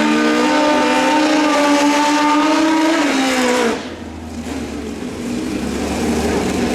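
Drag-racing motorcycle engine at full throttle, its note held high and steady, then dropping and cutting off abruptly about four seconds in. A low steady hum and background noise remain after it.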